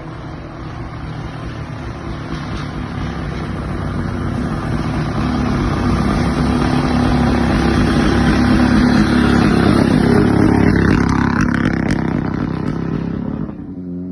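Rally car engine running hard as the car approaches and passes by: it grows louder for about nine seconds, then the pitch drops as it goes past and the sound fades away.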